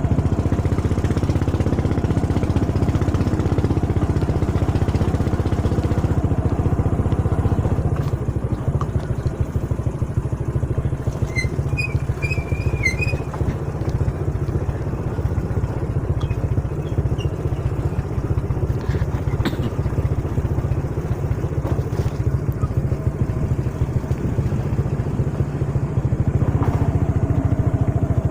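Small motorcycle engine running steadily, as when riding along. A few brief high chirps come through about twelve seconds in.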